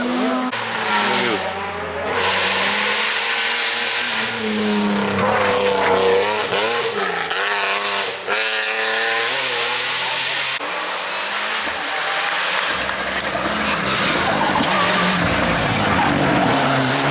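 Rally cars at full throttle on a stage, engines revving up and down through the gears, with tyres squealing and skidding as they slide. The sound changes abruptly a few times, as one passing car gives way to another.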